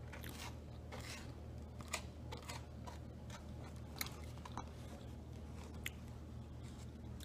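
A person chewing a hash brown, with irregular crunches and mouth clicks over a steady low hum.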